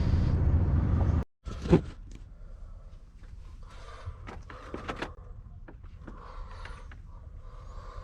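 Lorry engine running with a steady low hum that cuts off abruptly, followed by a single loud knock and then scattered lighter knocks and clicks, like handling things inside the cab.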